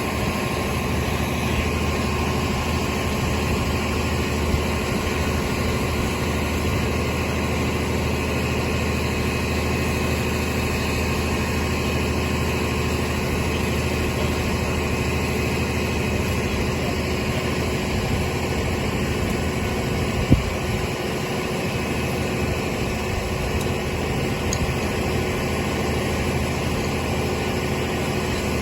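A vehicle engine idling steadily, with a single sharp knock about twenty seconds in.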